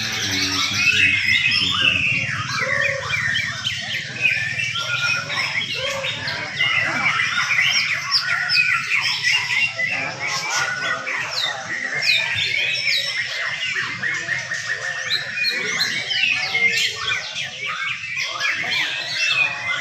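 Several young white-rumped shamas singing at once, a dense overlap of quick whistled phrases that never lets up.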